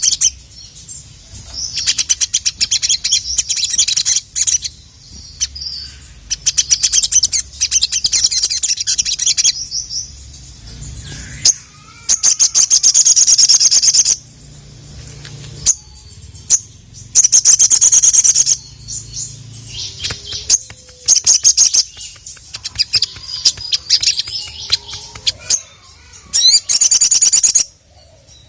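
Little spiderhunter (sogok ontong) singing in repeated loud bursts of rapid, high-pitched chattering notes. Each burst lasts a second or two, with short pauses between them.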